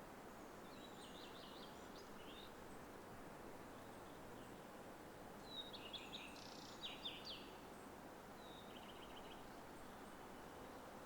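Songbirds singing short, quick chirping phrases three times, loudest about six to seven seconds in, over a faint steady background hiss of the spring woods.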